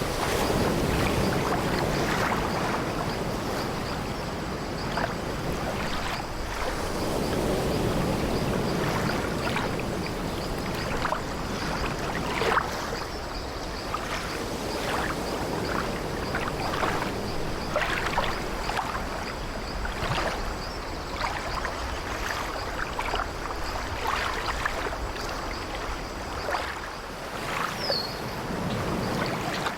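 Sea waves washing in slow swells against an old wooden ship, with many short creaks and knocks from its timbers and deck. A brief falling squeak sounds near the end.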